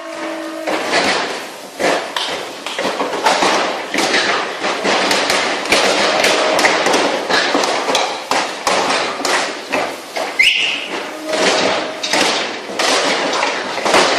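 Cattle hooves clattering and knocking on a hard floor: a dense, irregular run of thuds and taps. A moo ends right at the start, and a short rising squeal comes about ten seconds in.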